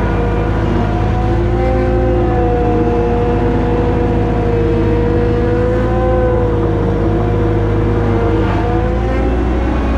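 Toyota SDK7 skid steer's engine running steadily, its pitch drifting slightly up and down.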